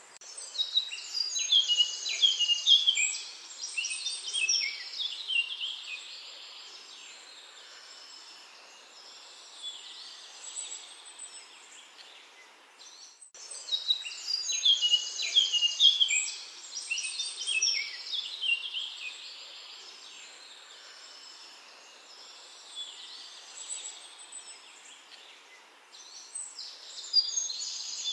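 Birds singing outdoors: bursts of quick, high chirps and trills every ten seconds or so, with a faint hiss between them and a brief dropout about halfway through.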